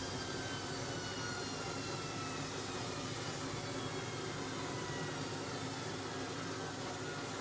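Beko washing machine's drum and brushed motor spinning down after a high-speed spin: a steady rush with a whine that slowly falls in pitch.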